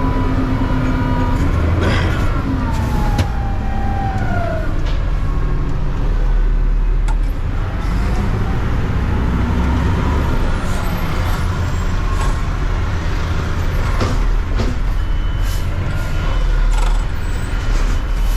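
Natural-gas Mack front-load recycling truck running steadily with a low engine rumble, with whines that slide down in pitch and occasional sharp knocks and clanks.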